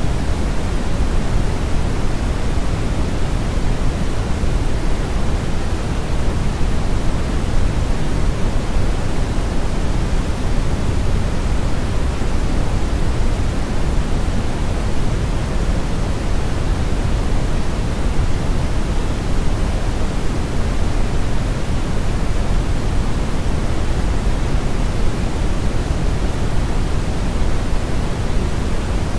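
Synthetic brown noise: a steady, unbroken hiss weighted heavily toward the low end, like a deep rushing rumble with little treble.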